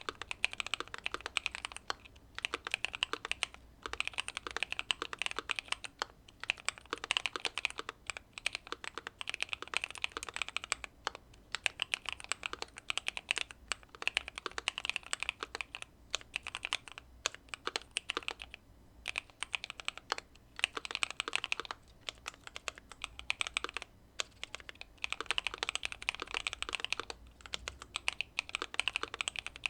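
Typing on a Keychron Q2 mechanical keyboard with factory-lubed Pearl Lemon switches, a tape mod and case foam: quick runs of keystrokes in bursts of a second or two, with short pauses between.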